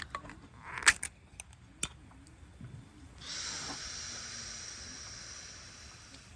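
A few sharp clicks and taps, then about three seconds in a sudden fizzing hiss that fades slowly over the next few seconds: a freshly opened carbonated drink fizzing.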